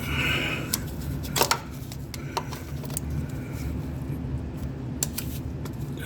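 Scattered short metallic clicks and knocks of a tool gripping and working a stuck spin-on oil filter under a car, the loudest about a second and a half in, over a steady low hum.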